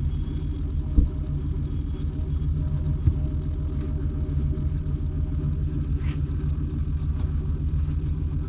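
Car engine idling steadily, with two brief knocks about one and three seconds in.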